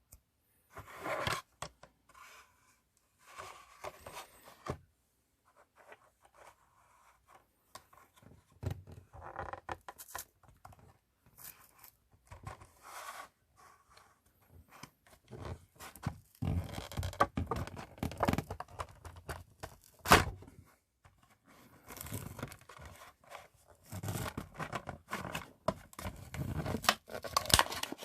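Hot Wheels die-cast car packaging being opened by hand: the card and plastic blister tearing, crinkling and scraping in irregular bursts, with a sharp knock about twenty seconds in.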